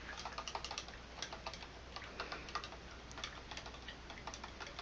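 Light, quick, irregular tapping of a paintbrush dabbing against the painting surface or palette, several taps a second.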